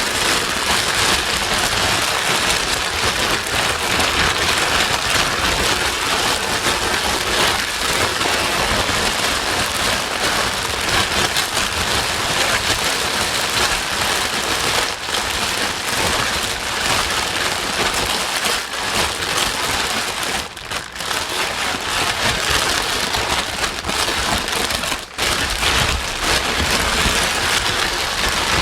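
Steady white noise, an even hiss across the whole range, with two short dips in level about 21 and 25 seconds in.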